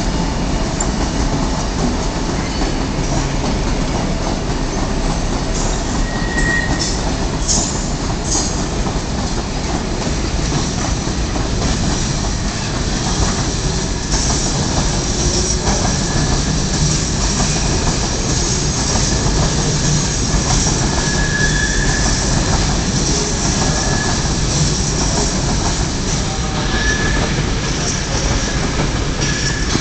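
A long freight train's wagons rolling steadily past at low speed, with clickety-clack and steel wheels squealing on and off against the rails.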